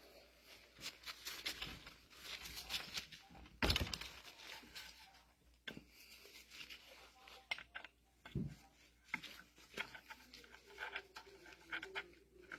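Hand work on excavator control-valve parts and tools on a workbench: scattered small clicks and taps, with a heavy knock a little under four seconds in and a duller one about eight seconds in.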